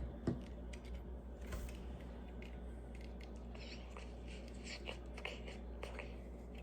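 Faint scattered clicks and small crunches of plastic Lego pieces being handled and pressed together, over a low steady hum.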